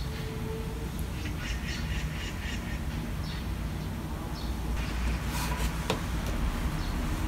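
A bird calling in a quick run of short repeated notes starting about a second in, over a steady low rumble.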